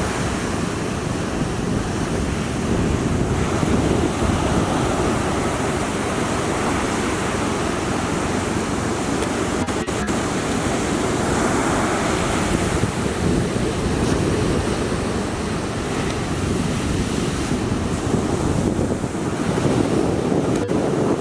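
Heavy storm surf pounding the shore, driven by an approaching typhoon, with strong wind buffeting the microphone. The sound is a steady, dense, low rumble of breaking waves and wind throughout.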